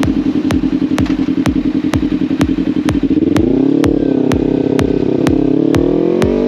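Motorcycle engine running under way, its pitch rising as it speeds up about three seconds in and again near the end, mixed with electronic music that has a steady fast beat.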